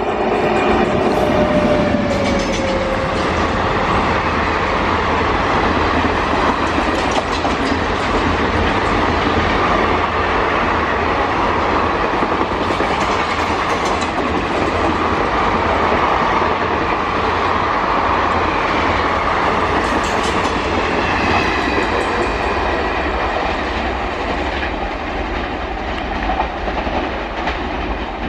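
A train rolling past at speed, a steady loud rumble of coaches with wheels clattering over rail joints, easing a little near the end. A short falling whine comes about a second in.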